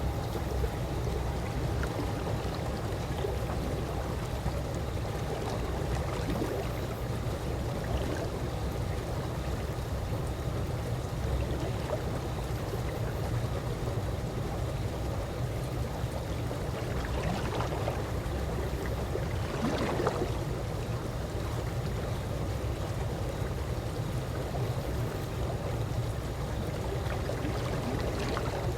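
Calm swimming-pool water lapping and gurgling steadily, with most of its sound low and deep. A few slightly brighter gurgles come about two-thirds of the way through.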